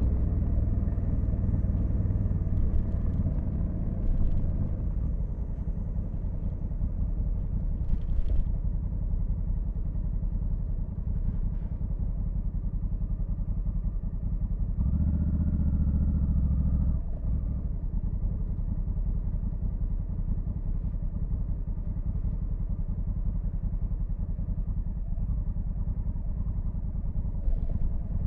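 Honda Africa Twin CRF1100L's parallel-twin engine running steadily under way. About halfway through, the throttle opens briefly and the engine grows louder, then it settles back to a steady cruise.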